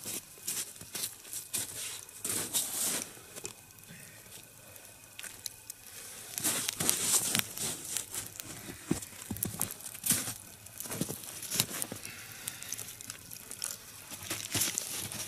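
A smouldering nodya log being turned and repositioned by hand: irregular rustling, scraping and knocking in uneven bursts.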